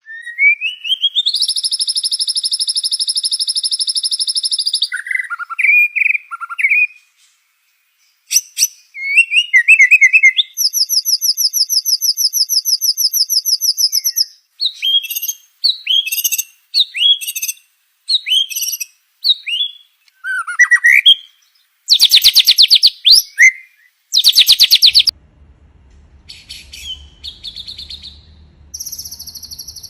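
White-rumped shama (murai batu) singing "tembakan": long rapid-fire trills of fast repeated notes, broken by short whistled and chattering phrases, with two loud buzzy trills past the middle. A faint low hum sits under the last few seconds.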